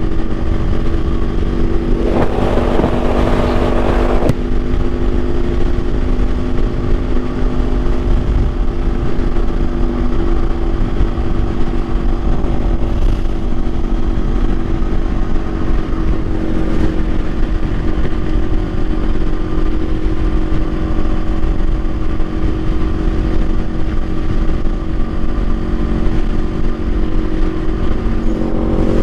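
Kawasaki Ninja 500's 451 cc parallel-twin engine running at a steady cruise, with heavy wind noise on the microphone. About two seconds in, a loud rushing hiss lasts about two seconds and cuts off. Near the end the engine pitch starts to rise as the bike accelerates.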